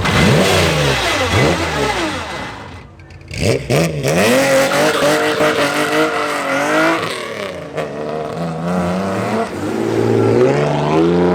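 Classic car engines revved hard, pitch swooping up and down in quick blips, with a short lull about three seconds in, then more revving that climbs in pitch near the end.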